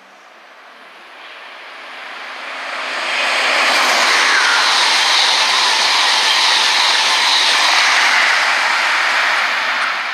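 A train passing close by at speed: a rushing noise of wheels and air that builds over about three seconds, stays loud for about six, then starts to fade near the end.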